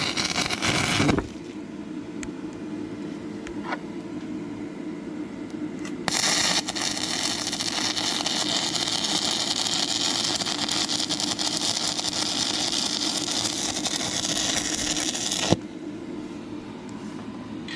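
Stick-welding arc from an E6011 rod on dirty, rusty metal: a run of arc crackle breaks off about a second in, then the rod is struck again about six seconds in, catches at once and burns with a steady, powerful crackle for about nine seconds before the arc is broken suddenly. A low steady hum fills the pause between the two welds.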